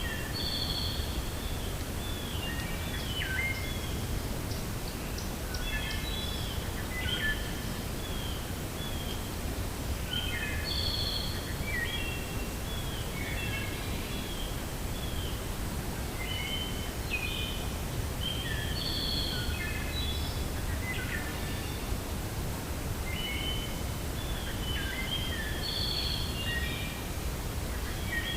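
Steady wind with a low rumble, and songbirds chirping short, quick phrases over it, a new phrase every second or two.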